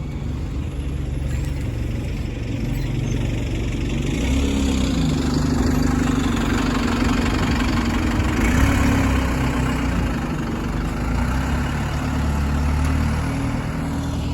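Diesel bus engine running. It grows louder about four seconds in and settles back after about ten seconds.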